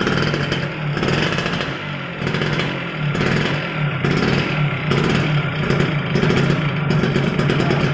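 Motorcycle engine running through an aftermarket exhaust (knalpot), a steady low note that swells and eases about once a second.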